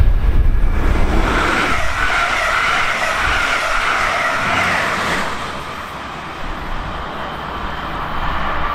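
Double-deck regional train passing close by at speed: a loud rush of wheels on rail with a high hissing squeal, which fades about five seconds in.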